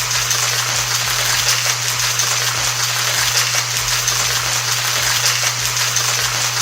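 Ice rattling inside a sealed cocktail shaker being shaken hard and continuously.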